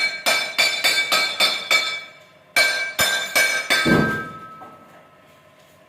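Metal struck repeatedly with a hammer, each blow ringing, about three blows a second: a run of about eight, a short pause, then four more, the last ringing out and fading.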